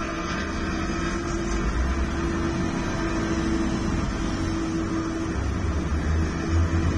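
NASCAR Camping World Truck Series race trucks running at full speed on track, a steady engine drone with a held tone that does not change throughout.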